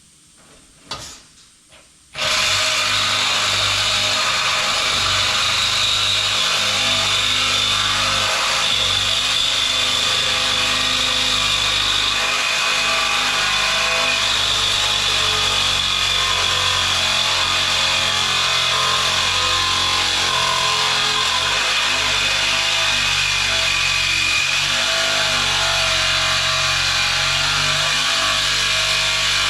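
Power saw starting about two seconds in and running steadily through stainless-steel exhaust tubing, with a light click just before it.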